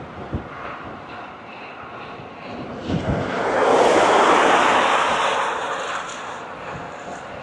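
A motor vehicle passing the bike at speed: tyre and road noise swells about three seconds in, peaks and fades away over a few seconds. Wind buffets the microphone underneath.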